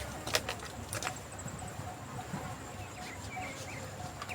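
Wild birds calling in dry scrub, a run of short repeated chirps. Two sharp clicks come in the first second.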